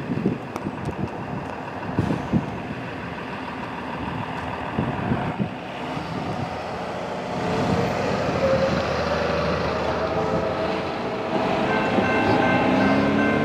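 A GE D9-44CW diesel locomotive with a V16 engine leading an intermodal container train as it approaches, its engine and rail noise growing steadily louder, with wind gusts on the microphone in the first seconds. About twelve seconds in, the locomotive's horn sounds a steady chord.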